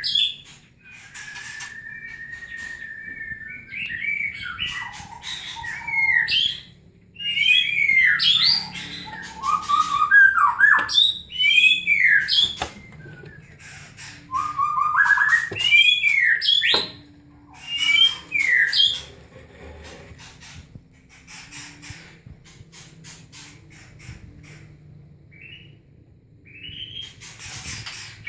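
White-rumped shama calls: bursts of loud chirps and gliding whistles that sweep up and down, with one steady whistle held for about two seconds near the start, growing quieter and sparser in the last third.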